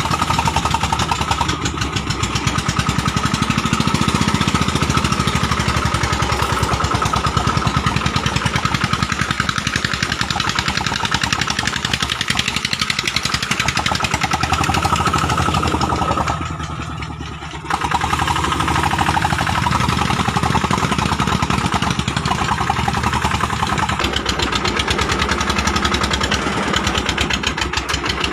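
Single-cylinder 'dompeng' diesel engine of a homemade palm-fruit hauling vehicle running with a rapid, steady knock, dipping briefly quieter a little past halfway before picking back up.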